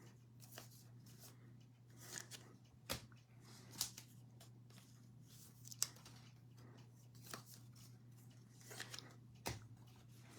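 Trading cards and their packs being handled: quiet, scattered flicks and rustles as cards are slid and sorted by hand, over a steady low electrical hum.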